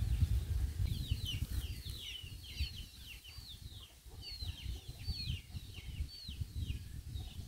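Birds chirping: many short, high, falling chirps in quick succession that thin out near the end, over a low rumble.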